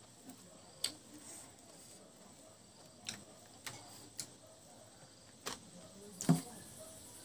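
Close-up mouth sounds of someone chewing a mouthful of mutton curry and rice: sharp wet clicks and lip smacks, scattered about a second apart, the loudest about six seconds in.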